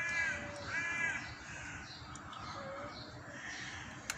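A bird cawing twice, one caw at the start and another just under a second in, each about half a second long. A single sharp click comes just before the end.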